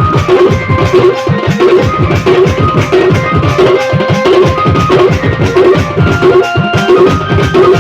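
Band party music: a steady drum beat with deep strokes that drop in pitch, under a held melody line.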